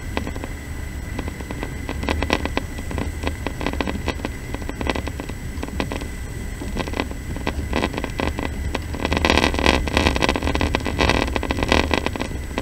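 Passenger train running, heard from inside the carriage: a steady low rumble with a constant rattle and clatter over it, growing louder for a couple of seconds near the end.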